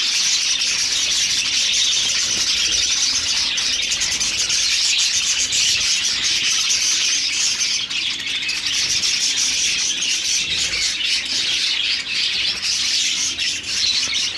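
A flock of small caged parrots, lovebirds and budgerigars, chattering all at once in a dense, unbroken high twittering.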